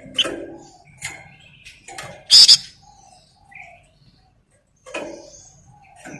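Bird called a flamboyan by Indonesian birdkeepers, singing in short separate phrases: chirps and a few short low whistles, with one loud harsh burst about two and a half seconds in and a brief pause near the middle.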